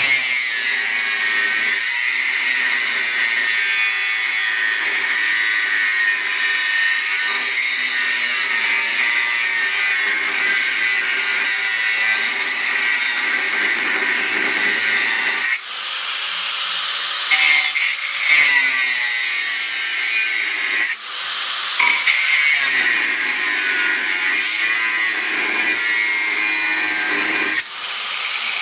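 A power tool working steel plate, running steadily with a high, gritty whine. It stops briefly several times in the second half.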